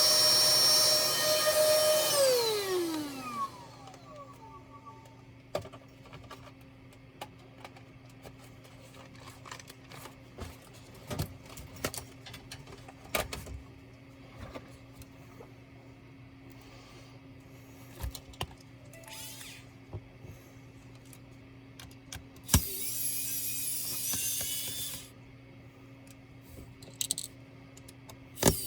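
Small electric screwdriver motor whining steadily, then spinning down in falling pitch about two seconds in. Light clicks and taps of small parts and screws follow. Near the end the motor runs again for a couple of seconds.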